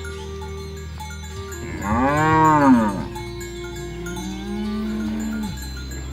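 Cows mooing: a loud moo about two seconds in that rises and falls in pitch, then a lower, longer moo that rises slowly and cuts off near the end.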